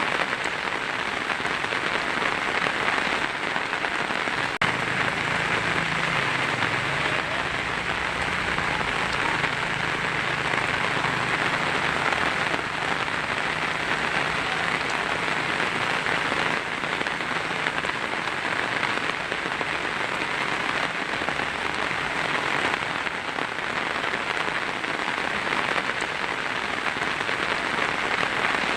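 Heavy rain drumming steadily on a tin roof. A low rumble of thunder runs beneath it from about five seconds in to about fifteen.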